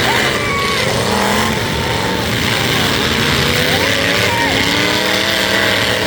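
Several demolition-derby truck engines running and revving at once, their pitches rising and falling over one another.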